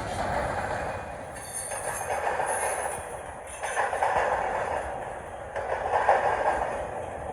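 Freight cars of a BNSF grain train rolling past, steel wheels on the rails making a noisy rumble that swells and fades about every two seconds.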